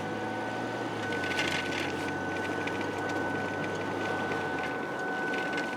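Road and engine noise inside a moving car's cabin, with a steady high-pitched whine running under it; a low drone drops away near the end.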